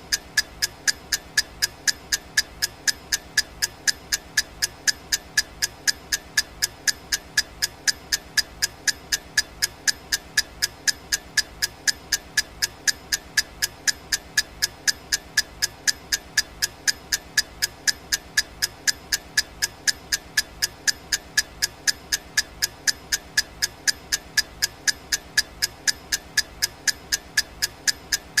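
Clock-ticking sound effect of a countdown timer: sharp, evenly spaced ticks, about two and a half a second, keeping a steady beat.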